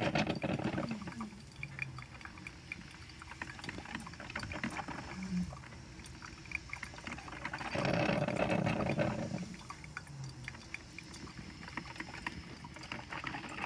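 Coffee maker brewing a pot, gurgling and sputtering as the water boils through, with short low moan-like tones mixed in. A louder, longer hissing gurgle comes about eight seconds in.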